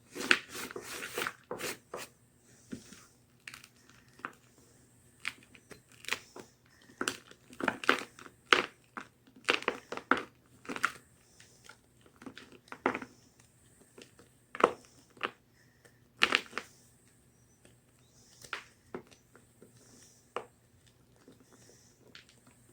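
Block of gym chalk being crunched and crushed: irregular crisp, dry crunches, a quick run of them in the first couple of seconds and then single crunches or short clusters every second or so.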